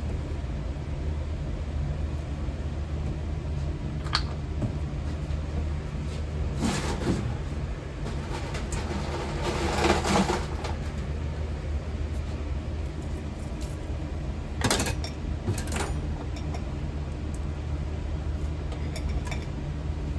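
Copper pieces and metal tools being handled at a melting furnace as more metal is added to the crucible: a few sharp metal clinks and knocks and a scraping rustle about halfway through. A steady low hum runs underneath.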